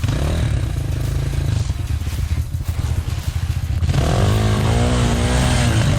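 Dirt bike engine running under throttle. About four seconds in it grows louder and is revved up and down.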